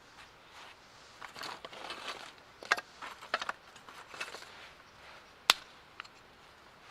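Irregular rustling and light knocks, with one sharp click about five and a half seconds in.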